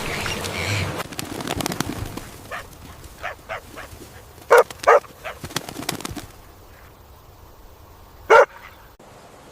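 An animal giving short, separate calls: a few faint ones at first, then two loud calls close together about halfway through and one more near the end.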